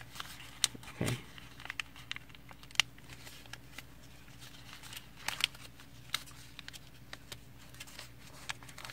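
A sheet of origami paper being handled and folded by hand: scattered soft crinkles and taps as it is creased and reverse-folded, over a faint steady background hum.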